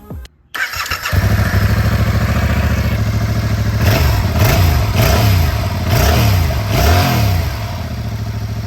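2021 Yamaha MT-07's parallel-twin engine on its stock exhaust being started: it cranks and catches about a second in, idles, then takes several quick throttle blips in the middle before settling back to idle.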